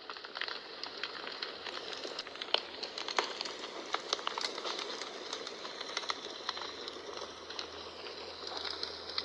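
Wood fire crackling in a fireplace: a steady hiss with irregular sharp pops and snaps, the loudest a couple of pops about two and a half and three seconds in.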